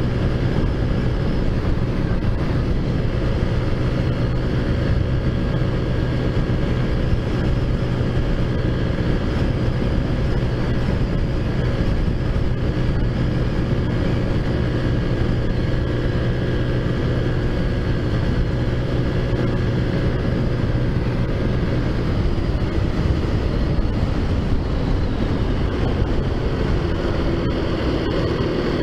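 Taotao Zummer scooter's big-bore 50cc four-stroke engine running under way at a steady, even pitch.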